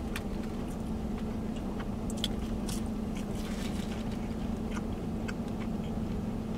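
A man chewing a fried chicken nugget with his mouth closed: scattered small mouth clicks over a steady low hum.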